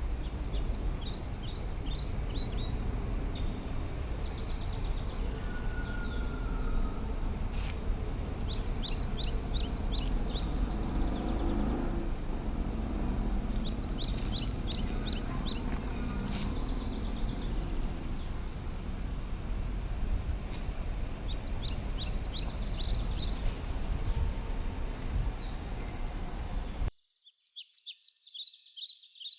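Birds calling in repeated series of rapid, high chirps that come every few seconds, over a steady low background rumble. Near the end the rumble drops out and the chirping carries on alone.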